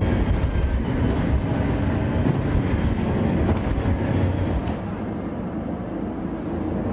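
Motorboat running steadily at speed, with rushing water and wind on the microphone.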